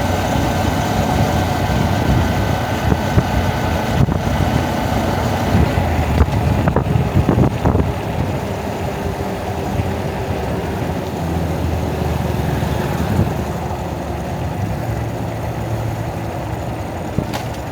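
Honda Monkey single-cylinder four-stroke motorbike engine running on the road, heavily buffeted by wind noise on the bike-mounted camera's microphone, with a few brief knocks between about four and eight seconds in.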